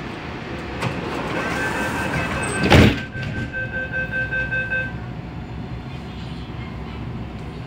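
MTR A-Train saloon doors closing: the door-closing warning beeps sound for about three seconds over the train's steady hum, with a loud thump about three seconds in.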